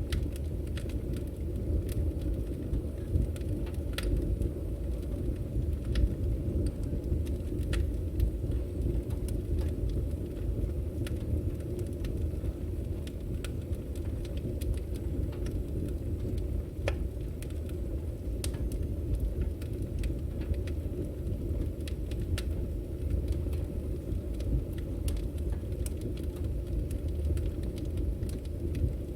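Burning firewood: a steady low rumble of the fire with frequent sharp crackles and pops scattered through.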